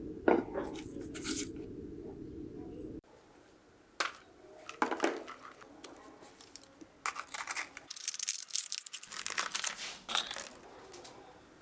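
Hands working on a diecast model car: irregular scraping, crinkling and light clicks. A low hum runs under the first three seconds and stops abruptly.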